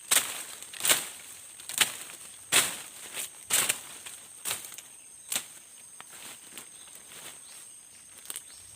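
Sharp cracks in a steady rhythm, about one every 0.85 seconds, growing weaker after about five seconds, over a faint steady high-pitched insect drone.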